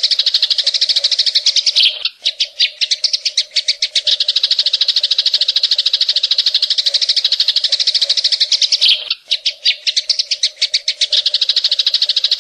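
A cucak ijo (green leafbird) sings a shrill, fast, continuous trill of high chirps, the 'tembakan' shooting phrase. About two seconds in, and again about nine seconds in, it breaks off briefly and restarts as separate stuttered chirps before running together into the trill again.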